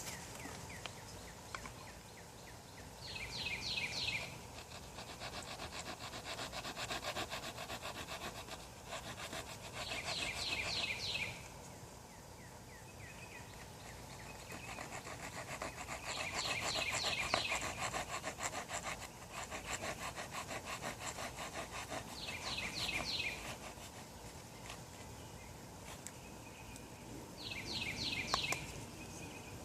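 Wooden hand-drill spindle spun between the palms in a hearth-board notch, a dry wood-on-wood rubbing in long runs with short breaks between. Short high trills recur every few seconds over it.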